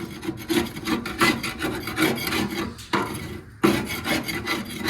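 Quick, repeated hand-scraping strokes as caked decades-old gunk is scraped out of a car's frame rail, pausing briefly about three and a half seconds in.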